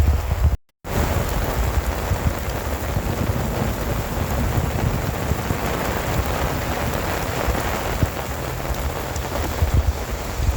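Heavy rain pouring steadily during a thunderstorm, with a low rumble of thunder underneath that swells at the start and again near the end. The sound drops out completely for a moment just under a second in.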